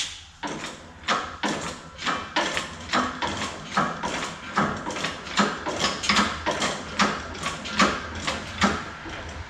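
Hydraulic pipe bender being worked stroke by stroke, a regular click-and-creak about two to three times a second as it forces a steel exhaust pipe round the bending die.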